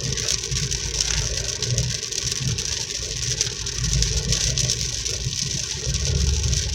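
Rain pattering on a car from inside the cabin while it drives, a steady hiss of fine rapid ticks over the car's low, rising-and-falling road and engine rumble.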